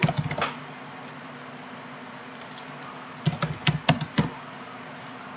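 Computer keyboard keys clicking in two short flurries, one at the very start and another about three seconds in, over a low steady room hum.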